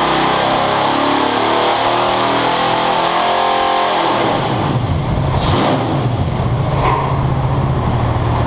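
Ford 460 big-block V8 on an engine dyno running hard at high rpm, then the throttle comes off about four seconds in and it settles to a lower, steady speed.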